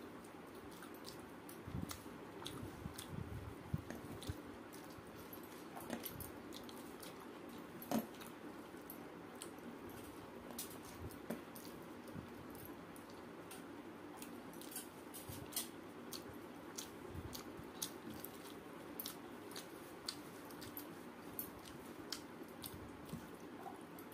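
Close-up eating sounds of rice mixed with dal and fried moringa leaves being eaten by hand: wet chewing and lip smacks, heard as many short clicks, a few of them louder, over a steady low hum.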